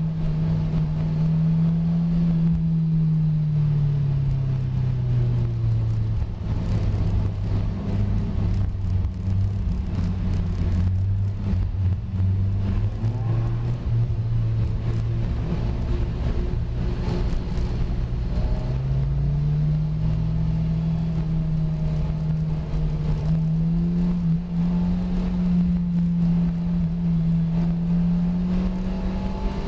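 Lotus Elise 111R's 1.8-litre Toyota four-cylinder engine heard onboard at track pace. The revs fall over the first few seconds, hold lower through the middle, and climb again from about 19 seconds in, over a steady hiss of tyres on the wet surface.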